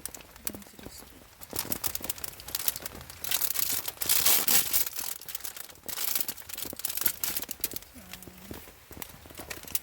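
Plastic packaging crinkling and tearing as it is handled and opened by hand, in irregular bursts, loudest in the middle.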